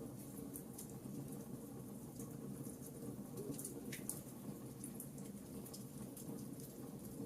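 Campfire burning, with frequent small crackles and pops scattered irregularly over a steady low background of the flames.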